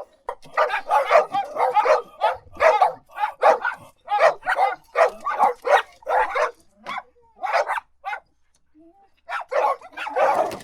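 Dog barking repeatedly in quick runs, about two to three barks a second. The barking pauses for about a second and a half near the end, then starts again.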